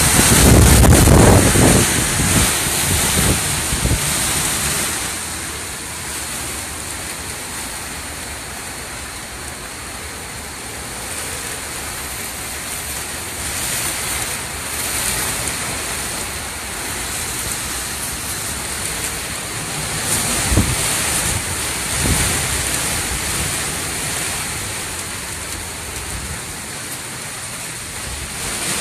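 Hurricane winds blowing hard, with heavy gusts buffeting the microphone in the first few seconds and again about twenty seconds in, over a steady rushing hiss.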